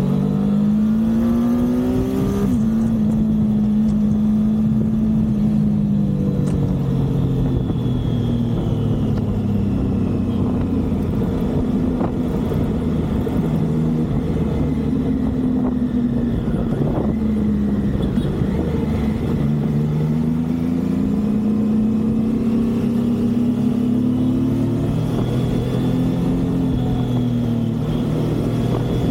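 Triumph motorcycle engine under way on a highway: the engine note climbs with the revs, steps down at gear changes, and climbs again several times, over a steady rumble of road and wind noise.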